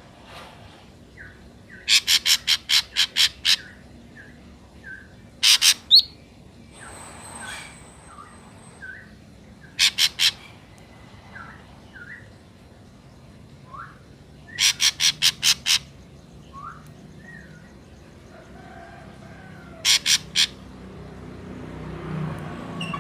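Ashy drongo calling: loud groups of rapid, harsh repeated notes, two to seven in a row, with faint short whistled notes in between.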